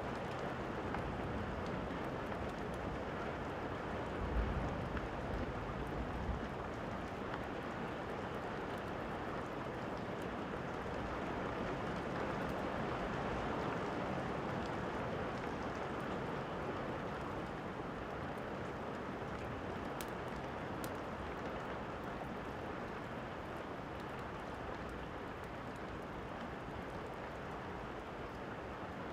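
Steady rain falling, an even hiss. About four seconds in there is a brief low thump, and there are a few faint crackling clicks from the fireplace sound mixed into the rain.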